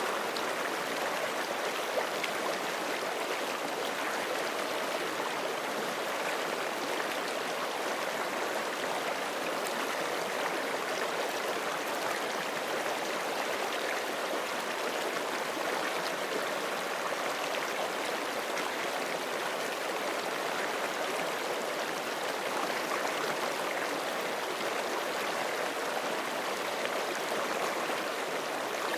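A forest creek rushing and gurgling over rocks in a steady, unbroken flow.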